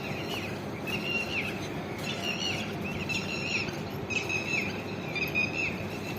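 A bird chirping in quick repeated phrases of short, slightly falling notes, over a steady low background noise.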